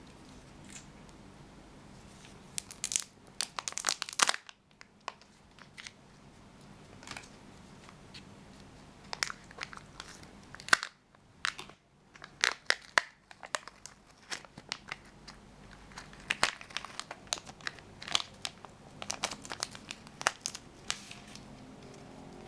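Wrapper packaging crinkling and tearing as it is opened by hand, in three bouts of sharp crackles.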